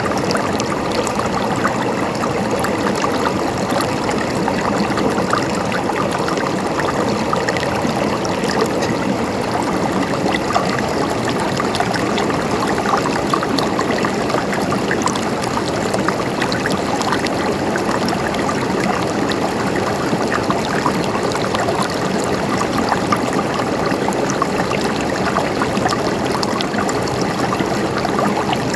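Flowing water gurgling steadily, an even, unbroken rush without pause.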